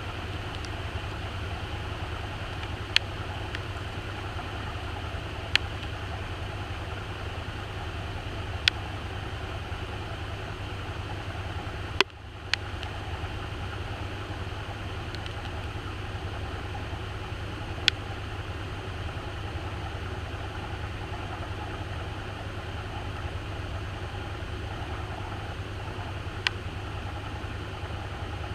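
Maytag washing machine running, heard from inside the tub: a steady low hum and rush, broken by a sharp click every few seconds.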